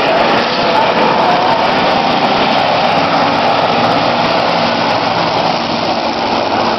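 Demolition-derby cars' engines running hard around a racetrack, a loud steady din of engines whose pitch wanders up and down as they rev.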